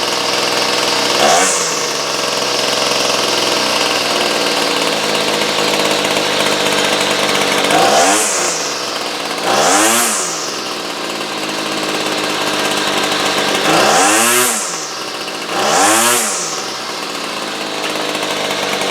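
Cheap department-store two-stroke chainsaw running steadily at idle and revved up and back down five times, after its carburetor has just been tuned.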